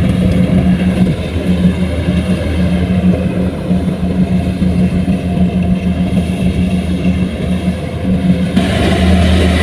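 Heavy machine's engine running steadily. Near the end it grows a little louder and brighter, as if taking more load.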